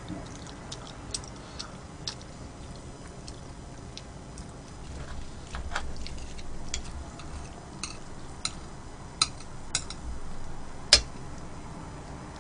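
Close-miked eating sounds: chewing with scattered sharp clicks of utensils or teeth, the loudest about eleven seconds in.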